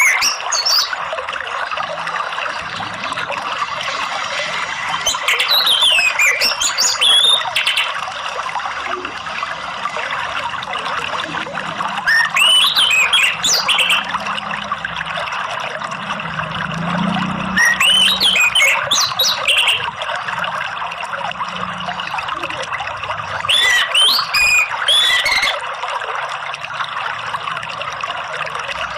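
Orange-headed thrush (anis merah) singing short, clear whistled phrases about every six seconds, over steady running water.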